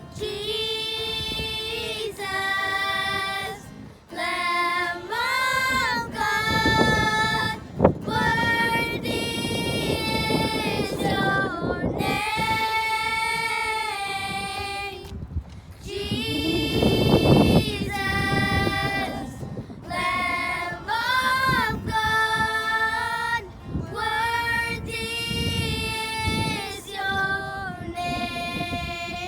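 A woman singing a worship song, in phrases with long held notes that bend in pitch.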